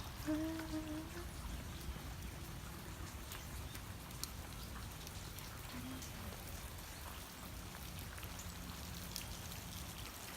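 Light steady rain falling, with many small drops pattering and ticking close by. A brief low murmur sounds about half a second in.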